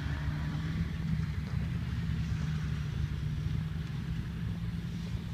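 Off-road vehicle's engine running at a steady pitch as it drives across rough ground, a low drone.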